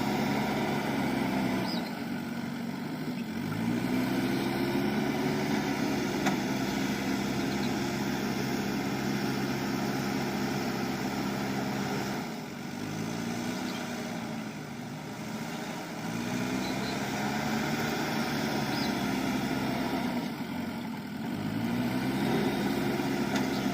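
JCB backhoe loader's diesel engine revving under load to drive the stuck machine out. The engine note sags and climbs back up four times.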